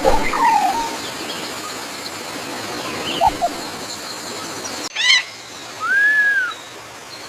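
Forest bird calls over a steady background hiss: a few separate whistled calls, with a quick burst of chirps about five seconds in and a single arching whistle, rising then falling, near the end.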